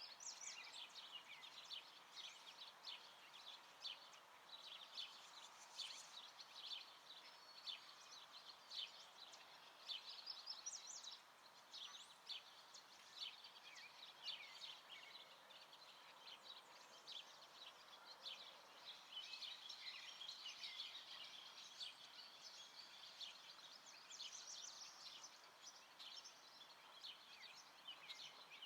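Faint dawn chorus of many small songbirds chirping and singing in quick overlapping calls, over a low steady background hum.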